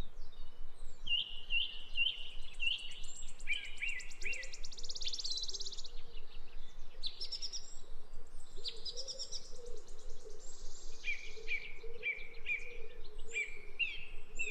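Songbirds singing: series of short, quickly repeated chirps alternating with fast, high rattling trills.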